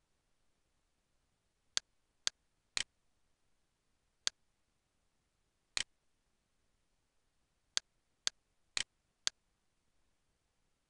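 Computer mouse button clicking: nine short, sharp clicks in irregular groups, including runs of three and four about half a second apart, over faint room tone.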